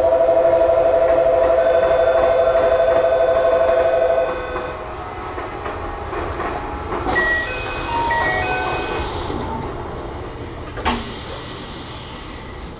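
Platform door-closing buzzer sounding a loud, fast-pulsing two-tone note for about four seconds, then stopping. After it come a few short high chime tones with a hiss of air, and a single clunk near the end.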